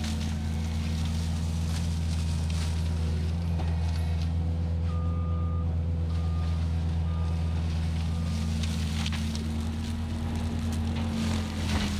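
Cat 259D compact track loader's diesel engine running steadily, with its backup alarm beeping four times around the middle.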